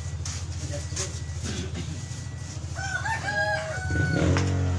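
A rooster crowing once, a stepped call about a second long starting just under three seconds in. Under it runs a steady low hum that grows louder near the end.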